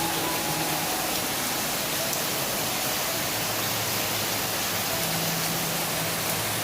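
Rain falling steadily: a dense, even hiss with no break.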